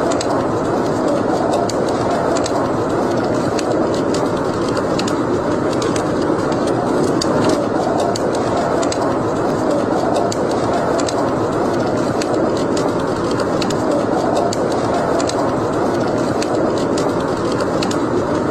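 Wood fire in a fireplace burning steadily, with frequent small sharp crackles and pops over a continuous rushing of the flames.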